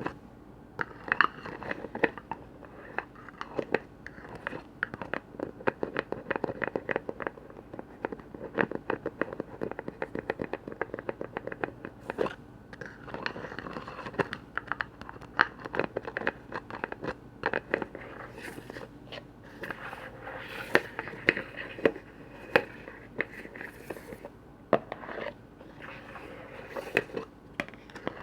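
Rapid tapping and scratching on container lids: a dense run of quick clicks, with sharper, louder taps scattered throughout.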